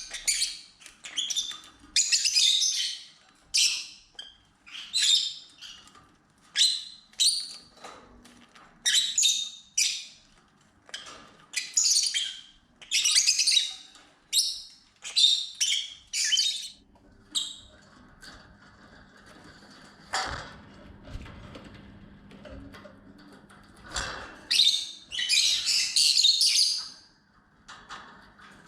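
Lovebirds calling in rapid runs of short, shrill chirps and squawks, with a quieter lull in the middle broken by a couple of sharp knocks.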